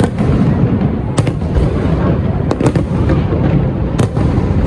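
Fireworks display: a constant low rumble of bursting shells with sharp cracks standing out every second or so.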